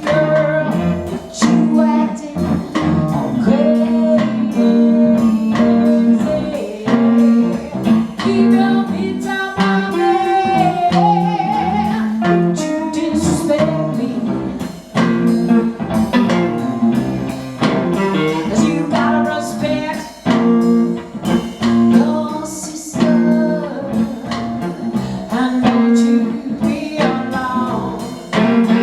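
Live blues music: a guitar playing with singing.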